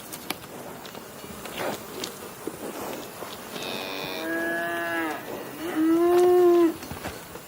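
Cow mooing twice, about four and six seconds in; the second moo is shorter and louder.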